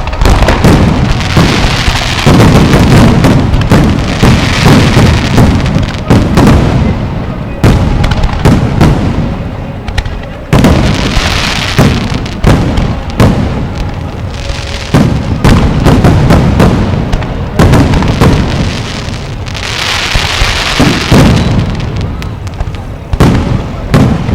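Fireworks display: a rapid string of bangs and booms, with swells of crackling from crackle shells a few times.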